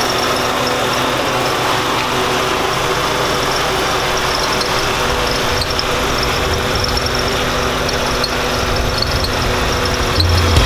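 Porsche 944 engine running steadily, with a thin steady whine over it that the owner is unsure about, thinking it may be a belt or the fan bearing.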